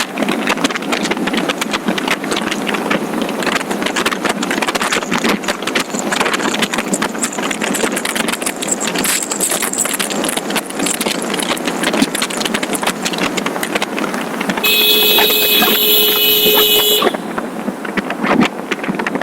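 Wind rushing over the microphone with road noise while riding a motorcycle. A vehicle horn sounds one steady note for about two seconds near the end.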